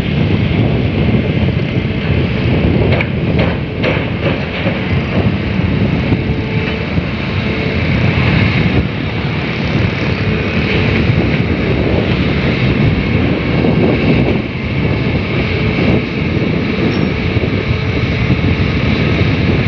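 Long-arm excavators' diesel engines running steadily, with a few short knocks about three to four seconds in.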